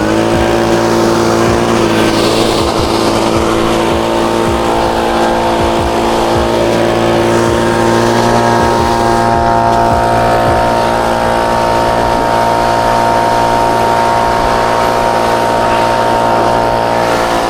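Blower running at one steady pitch, drying excess water off the washed motorcycle. It winds down just after the end.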